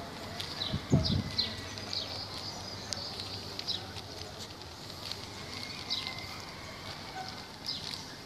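Small birds chirping, short high chirps repeating irregularly several times a second. About a second in there is a brief low thump, the loudest sound.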